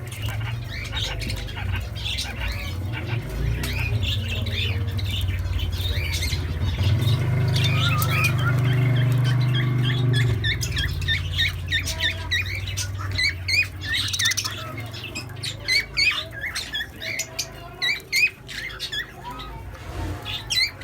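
Birds in a coop chirping and squawking, many short high calls in quick succession, over a low steady hum that fades out about halfway through.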